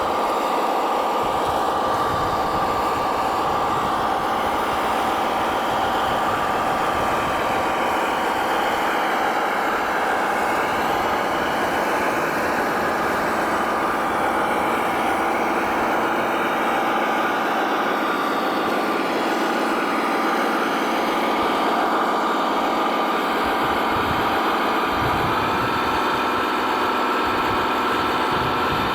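Radio-controlled model construction vehicles running, with a steady motor whine that steps up in pitch about 25 seconds in.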